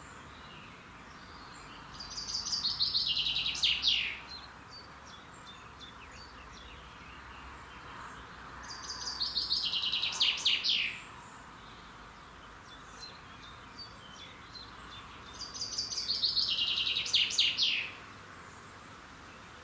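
A songbird sings the same short song three times, about every six to seven seconds. Each song is a quick run of notes that drops in pitch and ends in a few louder notes, over a steady background hiss.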